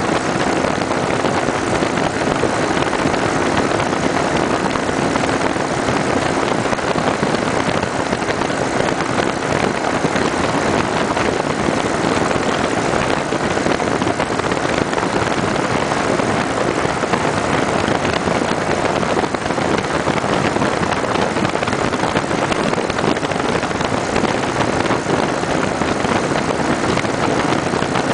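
Kawasaki Vulcan 900 Custom SE motorcycle at a steady cruising speed: its V-twin engine runs evenly under a constant rush of wind and road noise.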